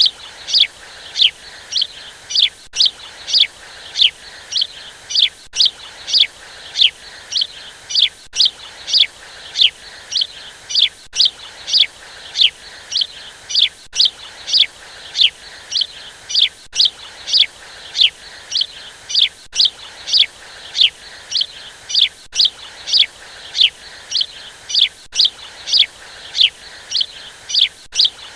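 Baby budgie chirping: short, high, downward-sliding chirps about three a second in a steady rhythm, the same short run of chirps repeating every few seconds.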